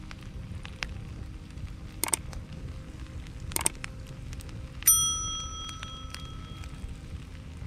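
A single sharp metallic strike, a little under five seconds in, rings out as a bell-like chime of several high tones and fades over a second or two. Two short sharp crackles come before it.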